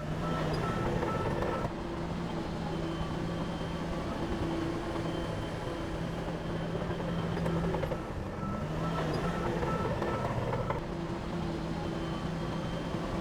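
Heavy diesel engine of earthmoving equipment running steadily, with a constant low engine note.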